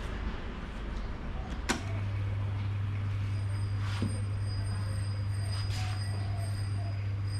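Hatari electric fan switched on with a click about two seconds in, then its motor gives a strong, steady low hum.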